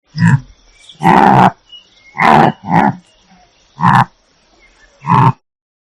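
A large animal calling six times in short, loud calls spaced about a second apart.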